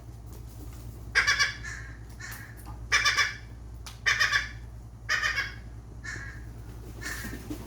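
Seagulls calling while being fed: a run of harsh squawks about one a second, four loud ones, then fainter calls near the end.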